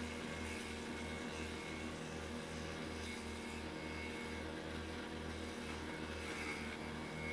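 Water-pump motor driving a homemade vegetable chopper's cutting blade, running steadily at an even pitch.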